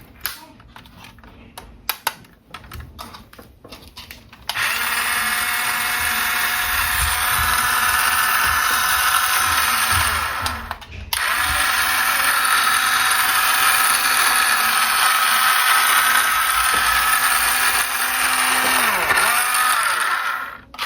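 Clicks and taps of handling, then about four and a half seconds in a toy RC car's small electric motor starts with a steady high whine. It stops briefly around ten seconds in, starts again, and winds down with a falling pitch near the end.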